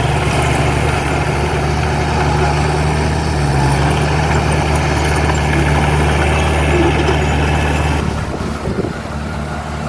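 Heavy diesel engine of earthmoving machinery running steadily at low revs, its deep engine note fading about eight seconds in.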